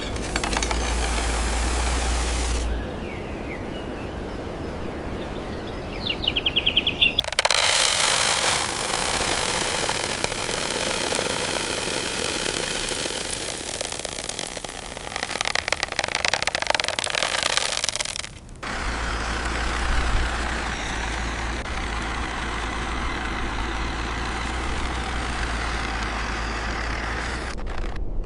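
A heavy truck engine running with a steady low rumble, broken by abrupt cuts into other stretches. The middle stretch is a harsher, brighter noise that crackles rapidly for a few seconds near its end.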